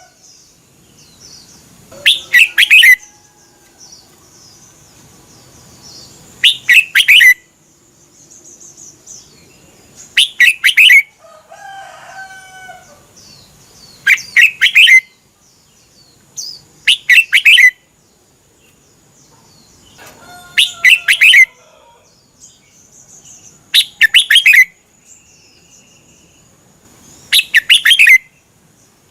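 Red-whiskered bulbul singing: short, loud, bright phrases of quick notes, repeated about every three to four seconds, with softer calls in between.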